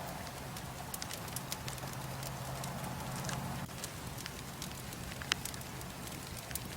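Wood bonfire crackling: irregular sharp snaps and pops over a steady low hum, with one louder pop about five seconds in.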